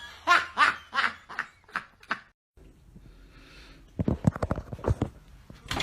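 A person laughing in a run of about seven short bursts that die away over two seconds. After a brief gap, a quick cluster of low taps or knocks follows about four seconds in.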